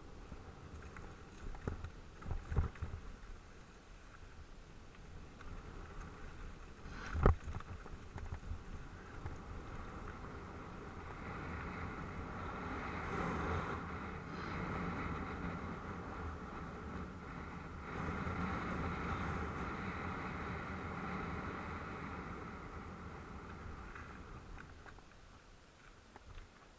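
Mountain bike rolling over a dirt track: steady tyre and wind noise that swells in the middle and fades near the end, with a sharp knock about seven seconds in and a few smaller knocks about two seconds in.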